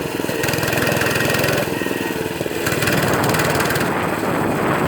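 Motorcycle engine running steadily, heard close up from the bike, a dense even chug of firing pulses with small shifts in tone along the way.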